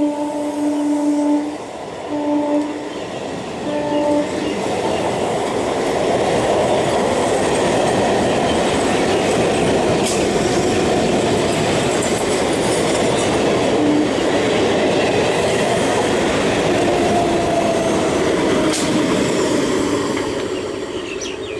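Electric multiple unit local train passing at speed: its horn sounds a long blast that ends about a second and a half in, then two short toots, followed by the steady rush and rumble of the coaches and wheels on the rails. The sound eases off near the end.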